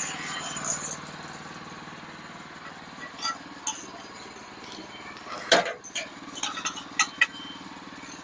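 Sawmill engine running steadily, with a scatter of sharp knocks and clinks over it, the loudest about five and a half seconds in.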